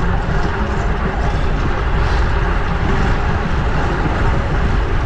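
Steady wind and road noise on an action camera's microphone while riding a fixed-gear bicycle through city traffic, a continuous low rumble with no break.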